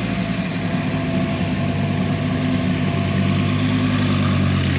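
2006 Dodge Viper's V10 idling steadily through its side-exit exhaust.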